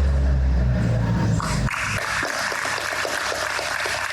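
A low, steady rumble for the first second and a half or so. It then gives way to applause, with individual claps coming several times a second.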